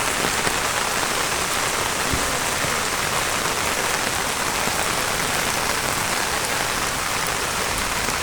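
Heavy rain falling steadily on surfaces, a dense even patter of drops.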